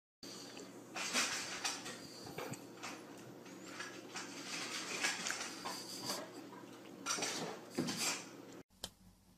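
A cat's claws clicking and scraping on a granite countertop as it skitters about, in irregular light taps with a few louder clicks.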